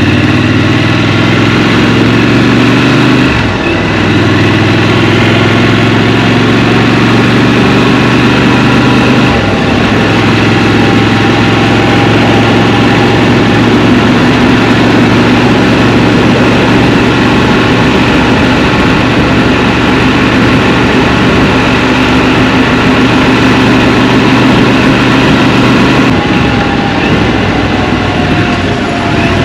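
Scrambler motorcycle's engine running at fairly steady revs. The engine note breaks briefly twice, a few seconds in and again about ten seconds in, then holds steady and drops lower near the end.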